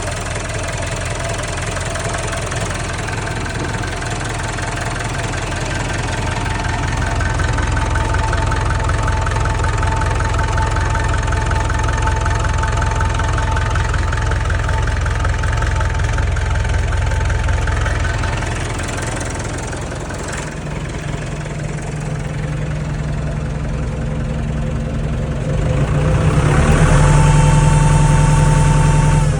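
Landini Blizzard 65 tractor's diesel engine running, raised to higher revs several seconds in, easing back down about two-thirds of the way through, then revved up again near the end.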